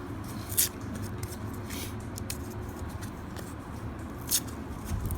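A paper roll of half dollar coins being opened and handled: a few brief crisp rustles and clinks over a steady low rumble.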